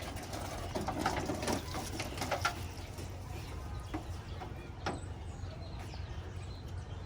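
Quiet handling noises, scattered small knocks and rustles, over a low steady hum.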